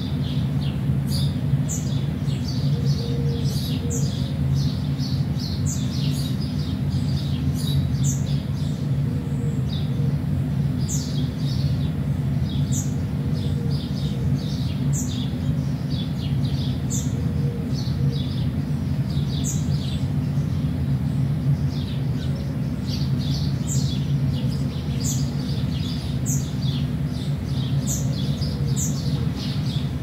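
Songbirds chirping: many short, high, falling notes repeating throughout, over a steady low rumble.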